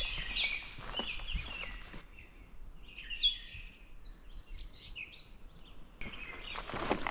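Birds chirping and calling in short repeated notes, with a few footsteps in the first couple of seconds and again near the end.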